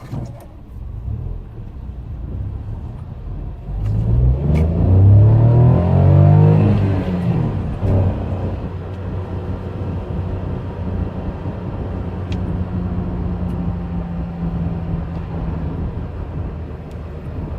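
Peugeot 108's 1.2 VTi three-cylinder petrol engine under way: about four seconds in its revs climb hard and it is loudest, then the pitch breaks off and it settles into a steady drone with road rumble.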